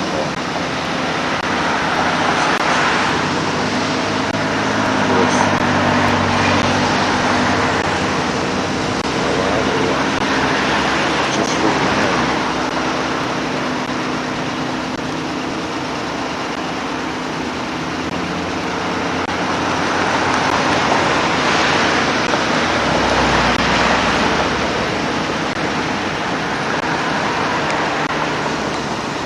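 A car driving along a road: a steady rush of engine and tyre noise with a low engine hum, swelling and easing a few times.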